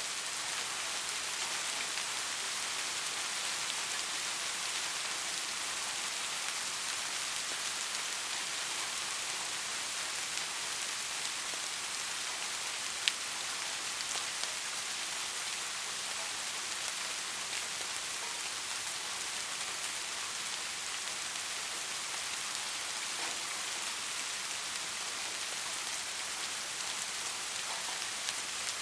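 Steady rain falling as an even hiss, with one sharp tick about halfway through.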